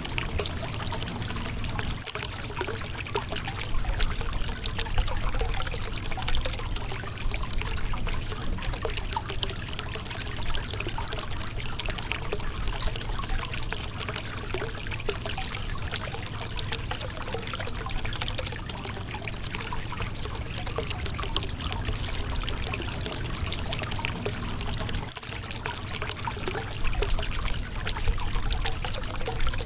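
Shallow river water running and splashing over a rocky bed, a steady trickling and burbling flow.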